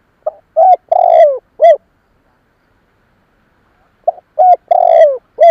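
Spotted dove cooing: two song phrases about four seconds apart, each a short coo, a held coo, a longer coo falling in pitch and a short closing coo. It is a decoy male's song of the kind used to provoke wild males.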